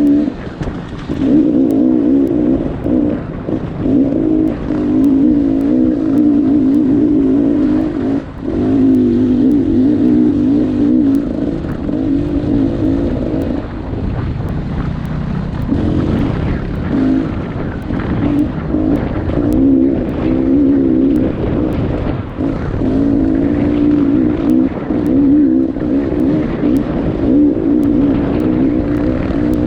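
Dirt bike engine running hard under throttle, its pitch wavering up and down as the throttle is worked, dropping away briefly a few times where the rider backs off.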